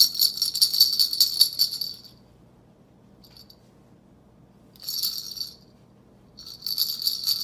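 A rattle shaken in three bursts: about two seconds at the start, a short shake near five seconds, and another beginning about six and a half seconds in.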